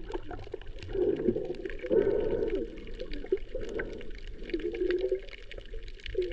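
Muffled underwater sound from a camera held under the water while snorkeling: water swishing and gurgling in uneven swells, with scattered small clicks and crackles.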